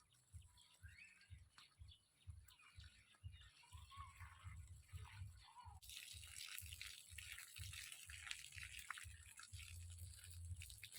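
Faint water splashing and trickling onto the ground, starting suddenly about six seconds in, with faint chirps before it.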